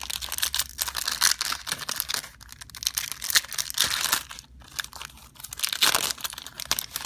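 Foil wrapper of a Pokémon trading-card booster pack being torn open and crinkled by hand, a run of crackling rips and crumples.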